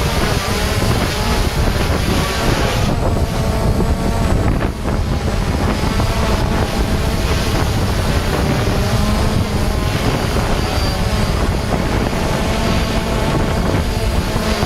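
DJI Phantom quadcopter's brushless motors and propellers buzzing in flight, their pitch wavering up and down as they hold against strong wind, with heavy wind buffeting on the microphone.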